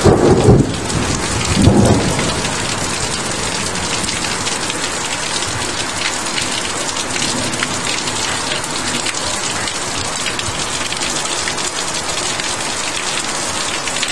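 A thunderclap right after a bright lightning flash: a loud crack-and-rumble at the start with a second surge about two seconds in, over torrential rain pouring steadily.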